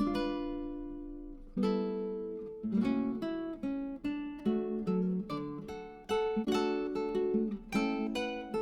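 Background music: acoustic guitar plucking and strumming chords, each chord ringing out and fading before the next.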